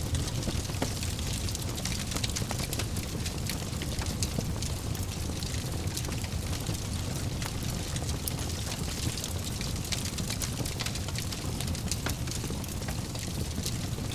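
Wood fire burning in a fireplace: a steady low rumble of flames with many small crackles and pops scattered throughout.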